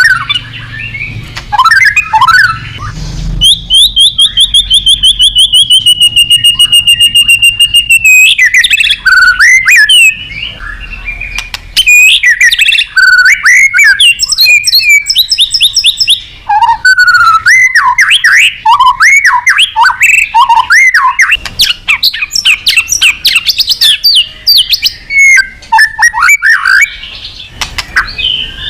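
White-rumped shama singing a long, varied song. A rapid trill of repeated notes falls slowly in pitch over about four seconds, then the bird runs on with fast, varied whistles and chirps.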